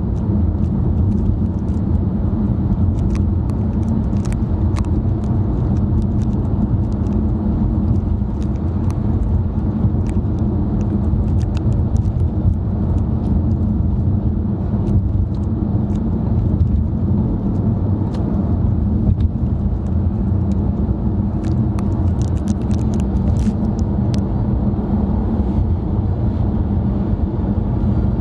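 Steady road noise of a car being driven, heard from inside the cabin: an even, low rumble of engine and tyres. A few faint clicks come through over it.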